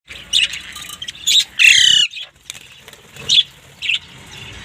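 Caged pet parrots calling: a few short high squawks and one loud, longer harsh squawk about a second and a half in.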